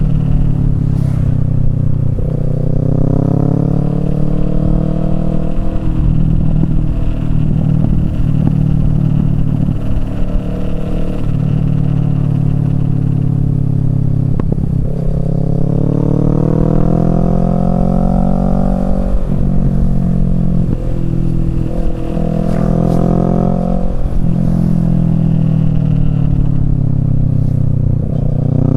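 Kawasaki Z650's parallel-twin engine through a Yoshimura Alpha exhaust, under way: the engine note climbs and drops again and again as the bike accelerates and rolls off the throttle.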